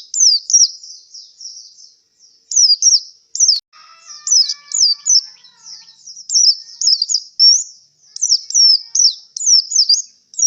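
A white-eye (pleci) singing a fast, chattering song of high, sharply falling notes, delivered in bursts separated by short pauses.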